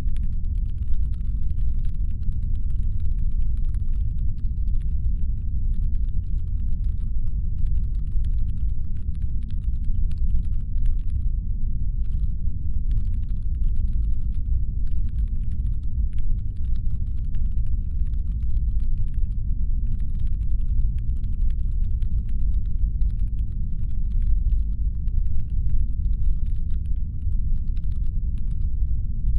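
Steady deep brown-noise rumble, a designed spaceship-engine hum. Much fainter rapid, irregular clicking sits over it and pauses briefly a couple of times.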